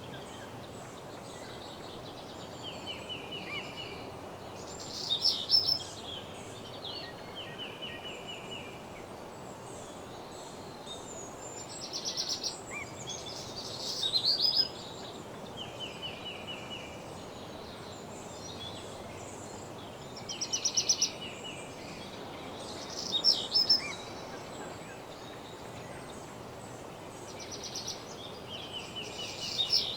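Several songbirds singing over a steady hiss of background noise: a short, fast trill of repeated notes comes every few seconds, and louder, higher-pitched song phrases break in about every three to nine seconds.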